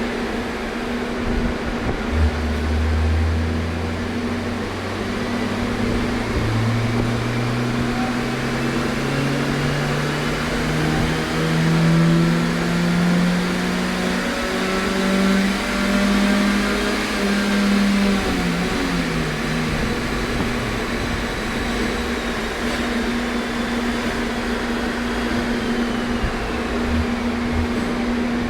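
Car engine making a full-throttle pull on a chassis dynamometer: from about two seconds in the revs climb smoothly and steadily for some sixteen seconds, then the throttle is lifted and the revs fall away. A steady hum runs underneath throughout.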